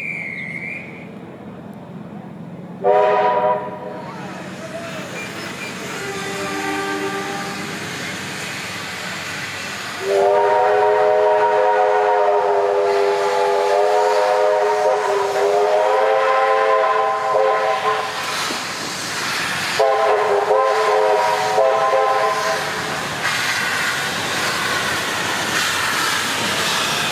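Steam locomotive whistle, likely Garratt 6029's, sounding a chord of several notes. A short blast comes about 3 s in, a long blast of about eight seconds around 10 s, and another blast about 20 s in, with steam hissing near the end.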